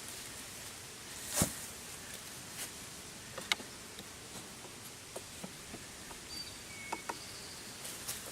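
Honeybees buzzing around an opened hive, with scattered clicks and knocks of wooden hive frames and boxes being handled; the loudest knock comes about a second and a half in.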